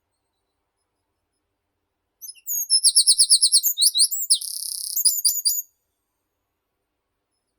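A songbird singing a single phrase of about three and a half seconds, starting about two seconds in: a fast series of repeated high notes, then a short buzzy stretch, then a few quick closing notes.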